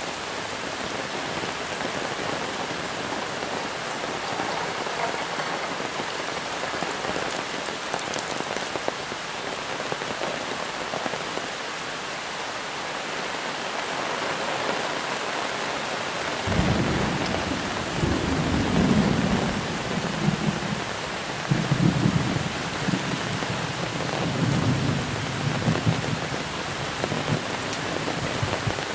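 Steady heavy monsoon rain pattering down. About halfway through, a long rolling rumble of thunder comes in, swelling and fading in waves for several seconds before dying away near the end.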